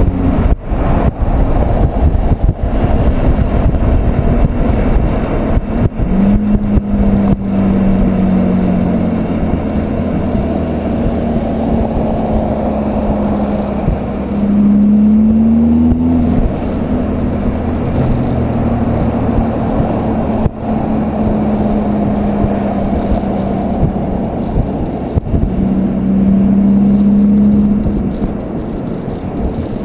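Volkswagen Golf 2.0 TDI four-cylinder diesel with a 3-inch Cortek exhaust and high-flow cat, driving. Its exhaust drone rises in pitch under acceleration a few times and falls back between, over a steady rush of road and wind noise.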